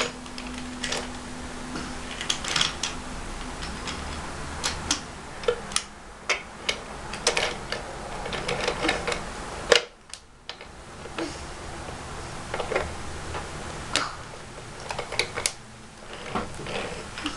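Wooden toy trains and trucks being handled on a wooden track: irregular light clicks and clacks of wood on wood as the pieces are moved and coupled.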